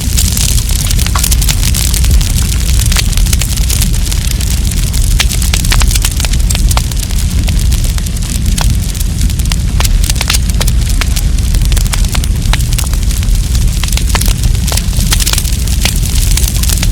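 Wood campfire burning, crackling with frequent irregular sharp pops and snaps over a steady hiss and a low rumble.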